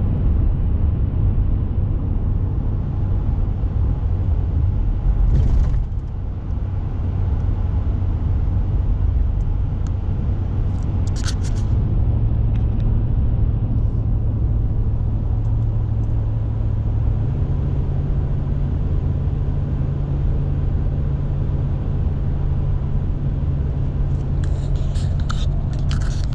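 Car being driven on the road: a steady low rumble of engine and road noise. About two-thirds of the way through, the engine's hum steps up in pitch, and there are a few brief clicks.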